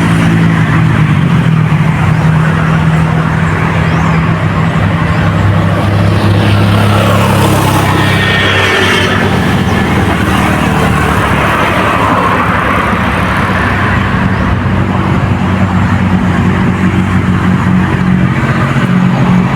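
An engine running steadily and loudly, its low hum shifting slightly in pitch about a second in and again around eight seconds in.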